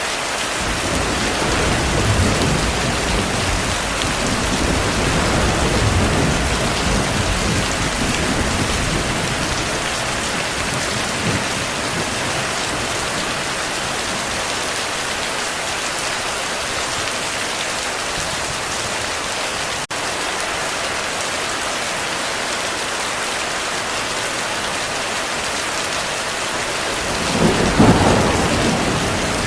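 Heavy rain falling steadily as an even hiss, with thunder rolling low for the first several seconds and a louder, sharper thunderclap near the end.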